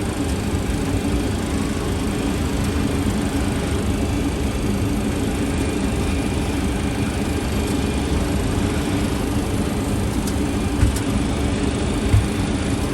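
Steady cockpit noise of an MD-80 on final approach with the gear down: a continuous rush of airflow over a low engine hum. Two short low thumps come near the end.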